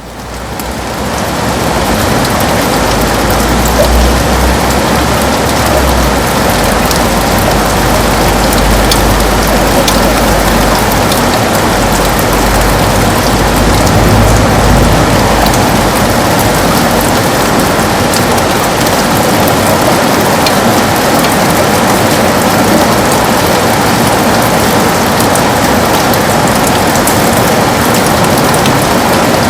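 Heavy rain on a window: a dense, steady hiss with scattered sharp drop ticks, fading in over the first two seconds. A low rumble sits under the rain through about the first half.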